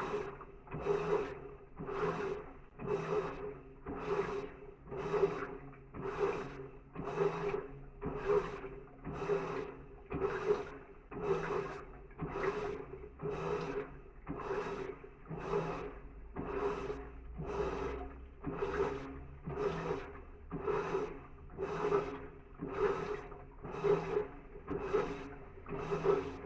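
Electrolux LTD15 top-load washing machine agitating a full, high-water load, its motor humming and the water sloshing with each back-and-forth stroke, about one stroke a second.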